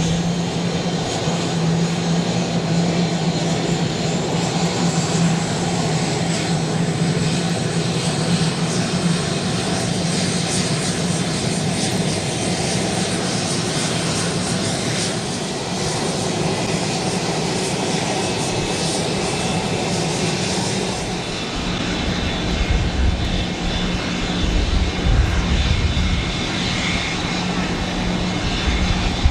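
Twin turbofan jet engines of a Kawasaki EC-1 (C-1-based) aircraft running steadily as it taxis. About two-thirds of the way through, a deep rumble swells in as the engines are brought up for the take-off roll.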